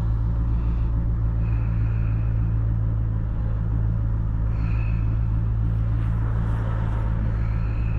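2003 Mustang SVT Cobra's supercharged 4.6-litre V8 running at a steady light cruise while driving, a constant low drone with road noise and no revving.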